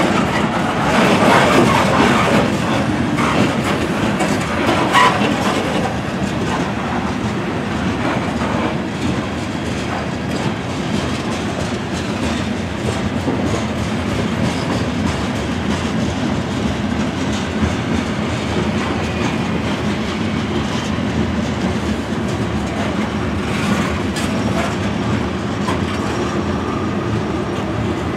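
Freight train of covered hopper cars rolling past at steady speed: a continuous rumble of steel wheels on rail with clattering clicks over the rail joints, a little louder in the first few seconds.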